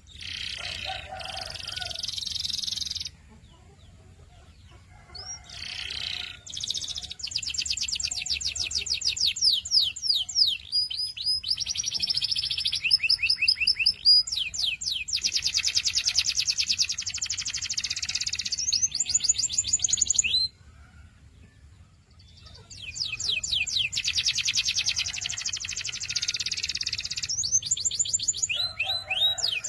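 Domestic canary singing long phrases of fast repeated notes and rolling trills, broken by two short pauses.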